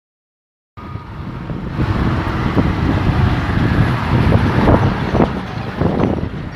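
Wind buffeting the microphone with a steady low rumble, starting abruptly about a second in.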